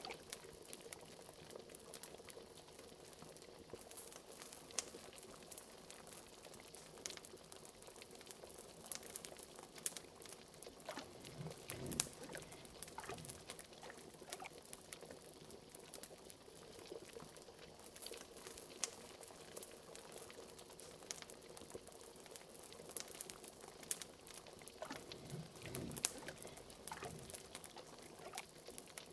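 Liquid bubbling in a cauldron, with bigger bubbles gurgling up a couple of times, over the scattered crackles and pops of a wood fire.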